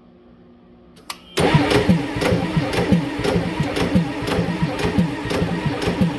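Ford 7.3 IDI V8 diesel engine cranking on the starter: a click about a second in, then steady cranking with about three to four even pulses a second. The engine turns over without firing, a crank-no-start.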